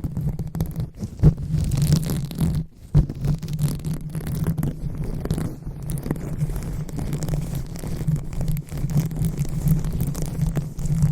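ASMR 'brain massage': hands rubbing and scratching right against the microphone, a dense run of soft crackles over a steady low rumble, with a brief break about three seconds in.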